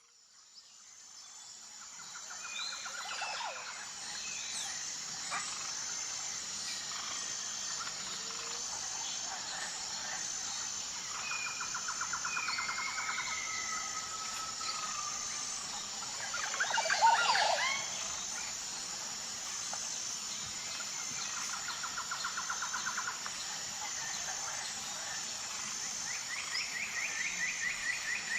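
Birds chirping and calling: short repeated trills, gliding whistles, and a louder burst of calls about 17 seconds in, over a steady high-pitched buzz. The sound fades in over the first couple of seconds.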